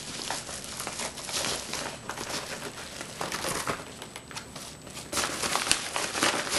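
Rustling and crinkling of packaging being opened by hand, with irregular handling noises that grow louder near the end.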